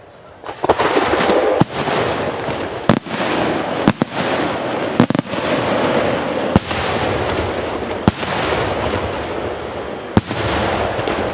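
Aerial fireworks shells bursting: a dense crackle of star effects starts about half a second in and runs on, cut by sharp loud bangs about once a second.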